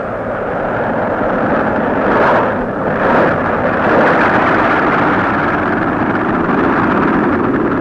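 Piston aircraft engines in flight, a loud steady drone that swells about two and three seconds in, like planes passing close by.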